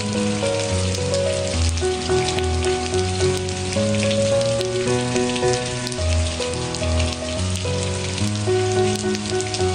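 Steady rain, a dense hiss of drops pattering on a surface, with slow, gentle melodic music of soft held notes under it.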